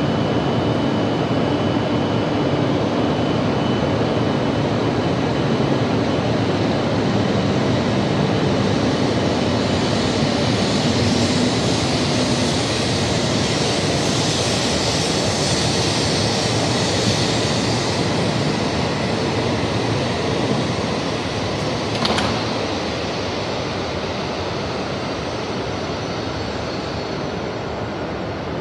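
E5 series Shinkansen pulling out of the station, its running noise swelling in the middle as it gathers speed past the platform. A sharp click comes about two-thirds through, after which the sound fades a little as the train leaves.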